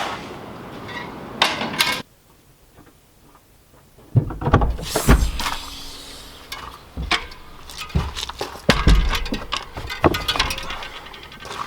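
Handling noises: a run of irregular knocks, clicks and clunks, broken by about two seconds of near silence a couple of seconds in.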